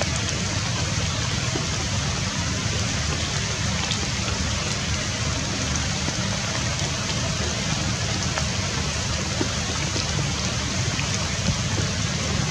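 Steady rain falling on leaves and wet ground: an even hiss with a few scattered drop ticks.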